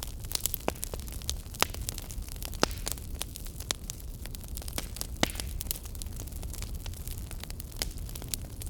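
Wood fire crackling in a fireplace: irregular sharp pops and snaps over a steady low rumble and hiss, with a few louder pops about a second and a half, two and a half, and five seconds in.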